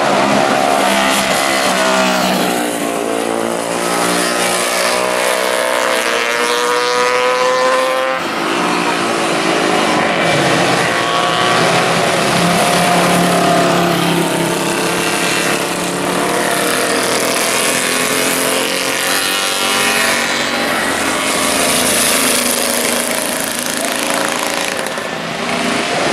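Classic racing motorcycle engines running hard, the pitch climbing under acceleration and dropping sharply about eight seconds in as a gear changes, over a steady rush of wind noise.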